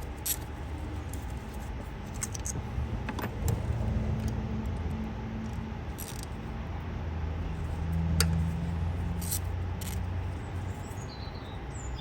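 Scattered metallic clicks and clinks of hand tools as the 10 mm screws holding the ignition coil pack are worked loose, over a low vehicle hum that swells in the middle. A bird chirps near the end.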